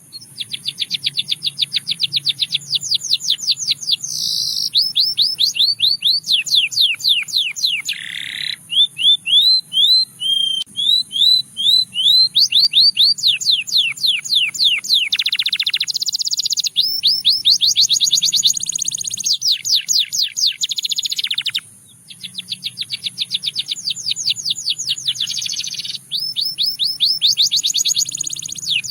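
Russian singing canary in full song: a long run of rapid trills, each phrase a fast series of repeated notes that shifts speed and pitch as the bird moves from one tour to the next, with short breaks about eight and twenty-two seconds in.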